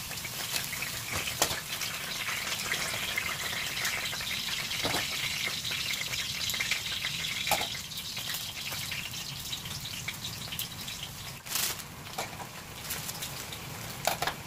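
Food sizzling steadily in a hot frying pan, with a few scattered knocks.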